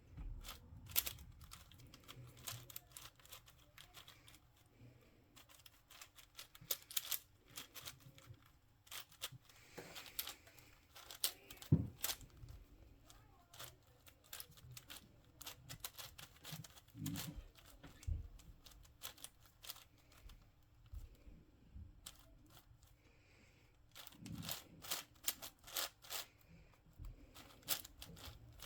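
Plastic speed cube being turned fast by hand: quick runs of clicking layer turns, broken by short pauses.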